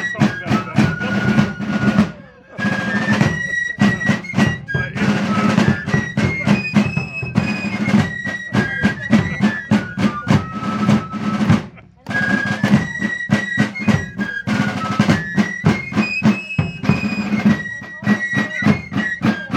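Fife and snare drum playing a march: a shrill stepping fife melody over rapid drum strokes and rolls. The tune pauses briefly about two seconds in and again about twelve seconds in, then the same strain starts over.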